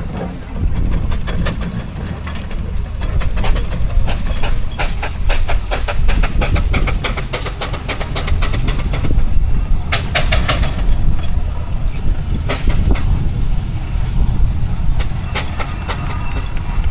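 Steam engine running, with a steady low rumble and rapid mechanical clatter, a burst of louder knocks about ten seconds in.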